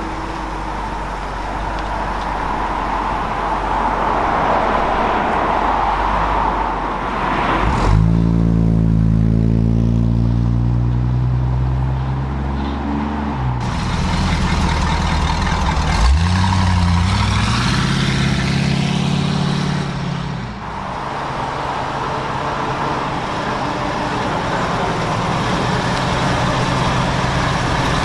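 A car engine comes in loud about eight seconds in and settles lower a few seconds later. It revs sharply up about halfway through, holds high for a few seconds, then falls away, over a steady background of noise.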